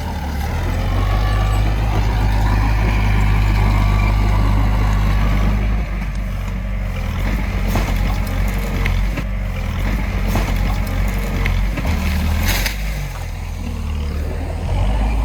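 Heavy diesel machinery engine running at a steady low pitch, louder for the first six seconds, with a few light knocks and a brief hiss about twelve seconds in.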